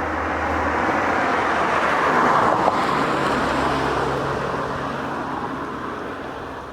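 A motor vehicle passing by: engine and tyre noise swells to a peak about two and a half seconds in, then fades away.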